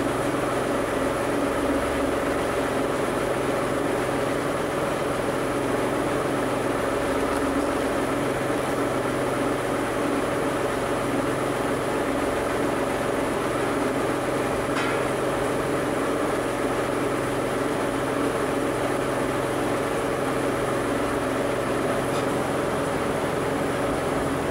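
Mitsubishi 3000GT's V6 engine running steadily at an even pitch, with one brief click about midway.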